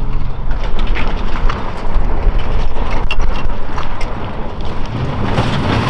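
Pickup truck driving hard through sand towing a boat trailer, engine running under load, with heavy wind noise on the microphone.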